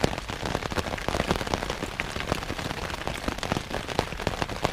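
Heavy rain falling on the canvas of a Polish poncho tent, heard from inside: a dense, irregular patter of drops with no let-up.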